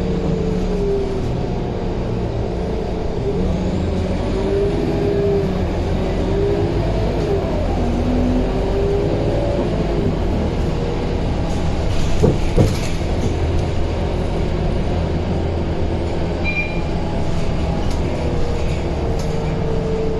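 Scania K230UB city bus under way, its diesel engine and drivetrain running with a steady low drone and a whine that rises and falls in pitch several times as the bus speeds up and slows. A short clatter of knocks or rattles comes about twelve seconds in.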